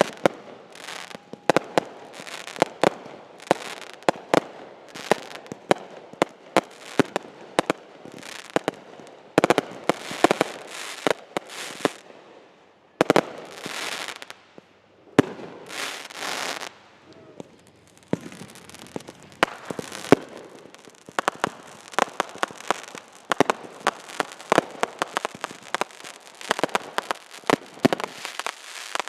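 Fireworks going off in quick succession: a continuous stream of sharp bangs and pops mixed with short hisses, turning into dense crackling from about halfway on.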